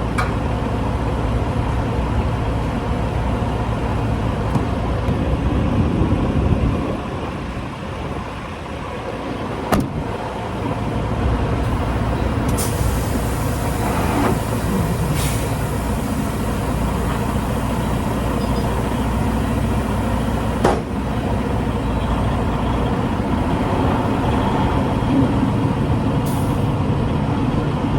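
Semi truck's diesel engine running steadily, with a few short sharp knocks and hisses scattered through.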